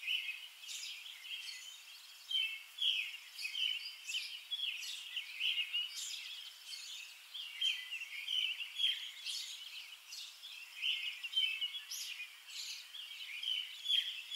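Songbirds chirping and singing, a steady stream of short overlapping calls.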